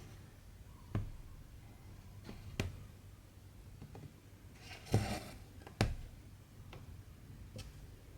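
Hand cross-stitching: a short swish of cotton thread drawn through stitching fabric, among a few sharp light clicks from the needle and hoop.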